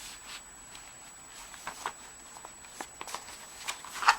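Paper pages, cards and tags of a handmade journal rustling and tapping as they are handled and turned: light scattered rustles with a sharper click near the end.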